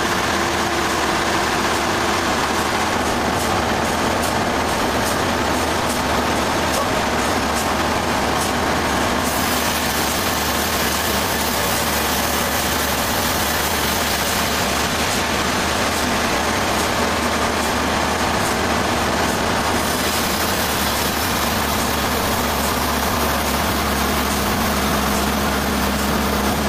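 Sawmill machinery running steadily with a loud, unchanging engine drone.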